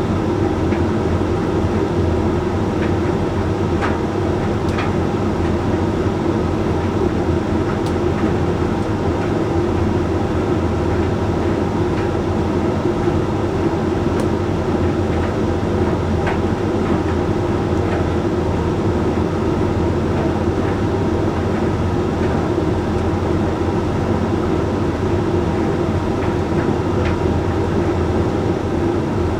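Hoover Link X Care HLX C10DRGR condenser tumble dryer running partway through a Whites drying cycle: a steady low hum from the motor and fan as the drum turns, with faint clicks now and then.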